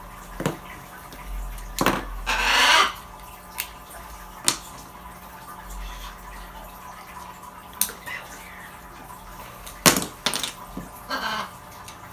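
Plastic Lego bricks being handled: scattered sharp clicks, with short rattling bursts of bricks being rummaged about two seconds in and again near the end.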